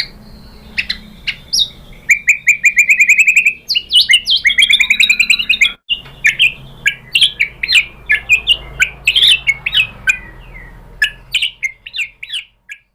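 White-rumped shama singing loudly: a fast trill of repeated notes, then a run of arched whistles, then a string of sharp, varied notes, over a faint low hum.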